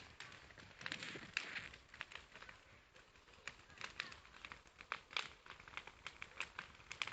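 Bonfire crackling: irregular sharp pops and snaps from the burning fire.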